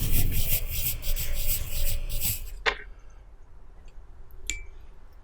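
A dog working at a piece of red dragon fruit with its mouth: fast, rough rubbing strokes for about two and a half seconds, then one sharp click and a few faint small clicks.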